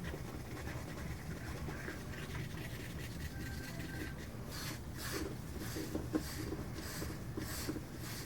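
A stick stirring and scraping resin in a cup, with a run of short strokes about two a second in the second half, over a low steady hum.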